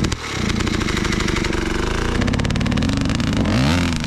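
Dirt bike engine revving hard with rapid firing pulses, its pitch wavering up and down, with a quick rev up and back down near the end.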